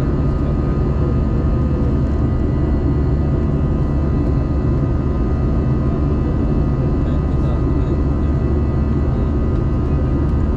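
Jet airliner engines during takeoff, a loud steady low rumble with a few faint steady whining tones above it.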